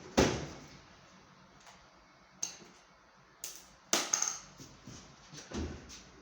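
A few separate knocks and clicks of washing machine parts and tools being handled during disassembly: a loud knock just after the start, single clicks a little over two and three seconds in, a quick run of clicks about four seconds in, and a duller knock near the end.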